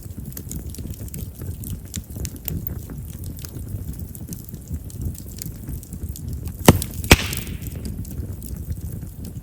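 Chestnut firewood burning in an open campfire: a low steady flame rumble with constant small crackles, and two loud sharp pops close together a little under seven seconds in, the second followed by a brief hiss. Chestnut is known to pop readily because of its large vessels.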